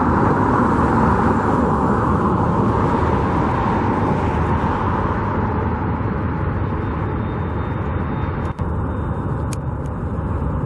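Steady rumbling noise of road traffic, with one brief click about eight and a half seconds in.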